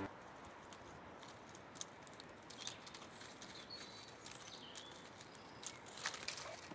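Faint outdoor ambience with small birds chirping now and then and scattered light clicks and rustles, the loudest cluster near the end.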